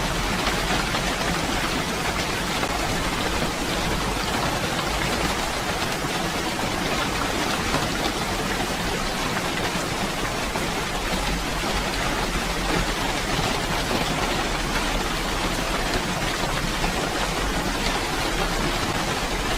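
Steady rainfall, a dense even hiss of rain falling without let-up.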